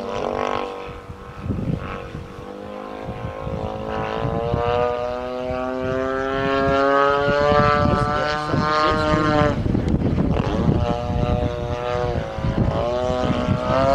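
Radio-controlled model airplane in flight: its motor and propeller whine slowly rising in pitch, dropping out about nine and a half seconds in and coming back near the end. Gusty wind rumbles on the microphone underneath.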